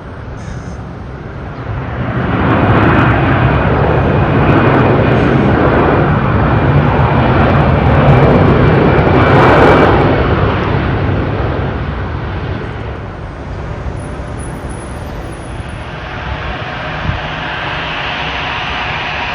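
Airliner engines passing: a loud jet rush that builds about two seconds in, peaks around ten seconds, fades, then rises again near the end.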